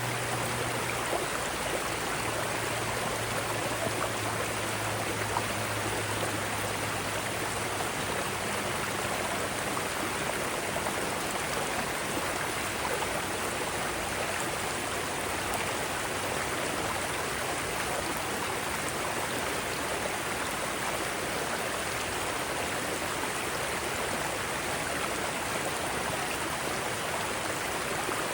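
Mountain stream rushing over rocky rapids, a steady, even wash of water noise.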